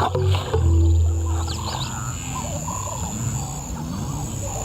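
A lion growling, a loud low rumble in the first second and a half that then fades, followed by birds calling.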